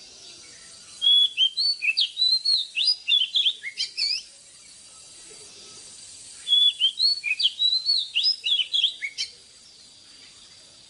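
Oriental magpie-robin singing: two similar phrases of rapid, varied whistled notes, each about three seconds long, with a pause of about two seconds between them.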